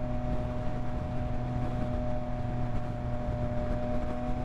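Yamaha MT-09's inline-three engine running at a steady, unchanging speed, over a low road rumble.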